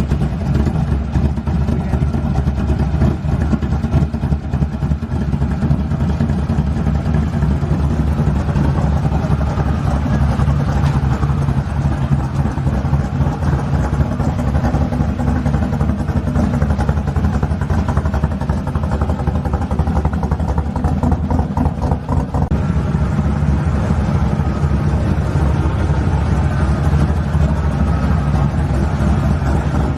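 Car engine running steadily, loud and close, with little change in pitch.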